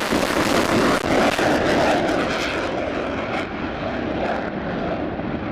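Jet aircraft engine noise: a loud, steady rush that grows duller as its highest tones fall away from about two seconds in.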